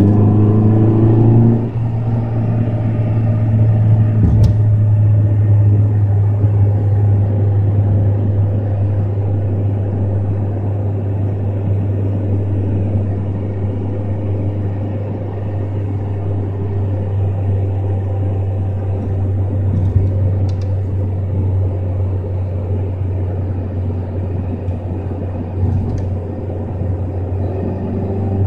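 2012 Hyundai Elantra fitted with a homemade fiberglass intake, heard from inside the cabin while driving. The engine climbs in revs for about a second and a half, then eases off, and the car cruises on with a steady low drone and a few faint knocks.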